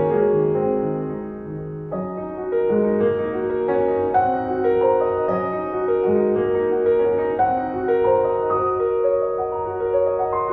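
Slow, gentle piano music, one held note after another with chords underneath.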